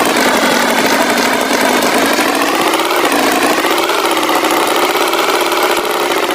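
Tractor engine running steadily, its pitch wavering a little.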